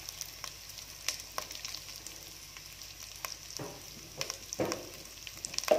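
Peanuts, split chickpeas and freshly added chopped curry leaves sizzling in hot oil in a stainless steel pot. The sizzle is a steady hiss with scattered sharp pops, and a few louder crackles in the second half.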